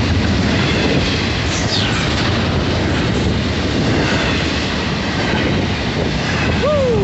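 Loaded double-stack container freight train's well cars rolling past close by: a steady, loud rumble of steel wheels on the rails. A brief high squeal falls in pitch about one and a half seconds in.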